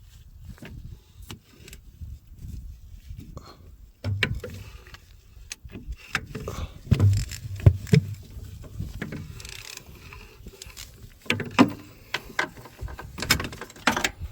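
Irregular metal clanks, clicks and knocks of a socket wrench and breaker bar working on a skid steer drive motor's mounting bolts, with rubbing and handling noise between them. The strikes come thicker and louder from about four seconds in.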